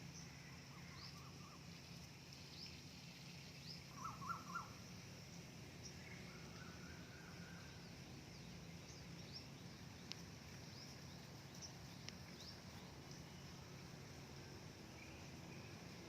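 Birds chirping: many short, high chirps scattered through, with a louder quick burst of lower calls about four seconds in. A faint steady low hum lies underneath.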